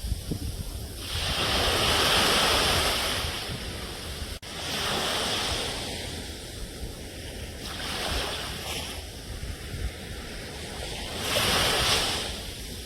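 Ocean surf: waves breaking and washing in over a steady low rumble, swelling four times, with a brief dropout in the sound a little after four seconds in.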